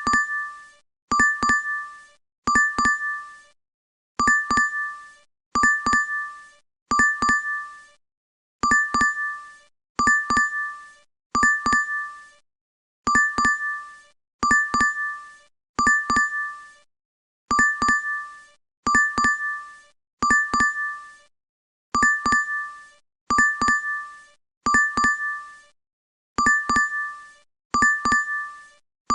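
DoorDash app notification chime looping: a short bright ding that fades within about a second, repeating about every 1.4 seconds in groups of three.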